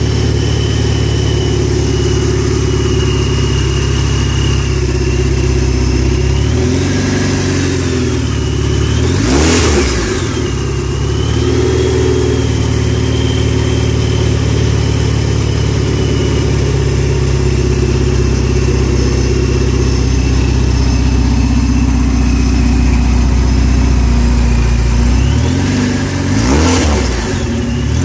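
Supercharged car engine running through an open PLM Tri-Y header, with no exhaust past it: very loud idle, revved up and back down twice, about eight seconds in and near the end. A high steady whine, typical of the supercharger, rides over the exhaust and bends with each rev.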